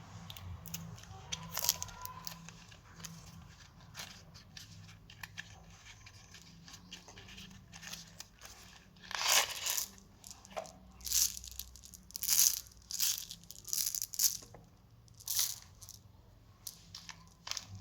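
Crinkly plastic candy packaging being handled and torn. There is faint rustling at first, then, about halfway in, a run of loud crackling bursts roughly once a second.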